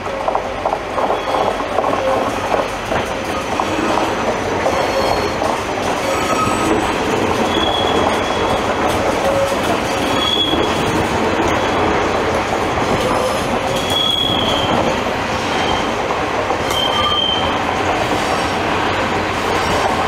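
Regional RRR push-pull train hauled by a BB 25500-series electric locomotive rolling past along the platform: a steady rumble of wheels on rail with clicking in the first few seconds. Several short, high-pitched wheel squeals come every few seconds through the middle and later part.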